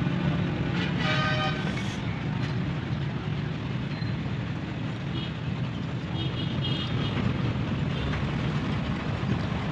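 Steady road-traffic and engine noise, with a vehicle horn sounding briefly about a second in and again around six to seven seconds.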